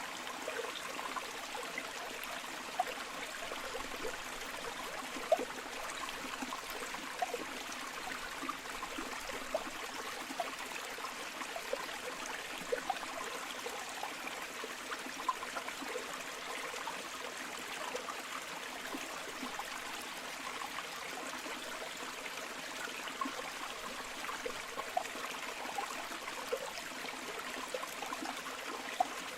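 Flowing river water, a steady rushing with many small splashes and gurgles scattered through it.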